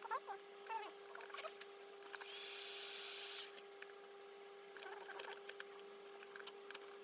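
Vinyl wrap film being worked by hand: small squeaks and rubbing of the film and squeegee, with a short hiss about two seconds in that lasts just over a second. A steady low hum runs underneath.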